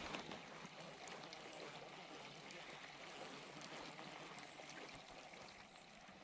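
Faint, steady water noise of lake water lapping and trickling, with a few light ticks.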